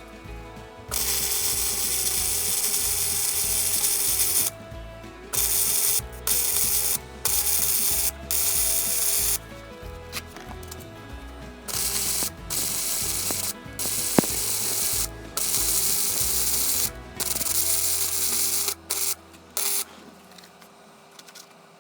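MIG welder arc crackling in about ten bursts of one to three seconds each, starting and stopping abruptly with short pauses between: stitch-welding steel onto a vehicle chassis rail.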